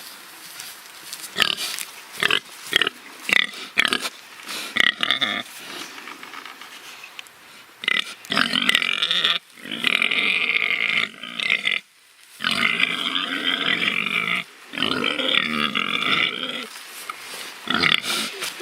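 Pigs grunting in short calls, then, from about halfway, squealing in long loud calls of one to three seconds each, with a few short grunts near the end.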